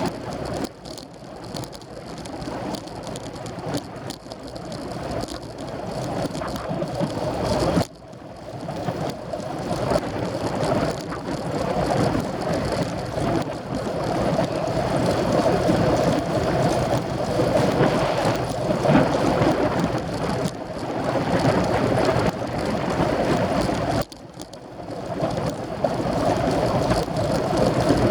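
Wind rushing over the microphone and road noise while riding a racing bicycle, a steady rumbling hiss that drops away suddenly twice, about eight seconds in and near the end.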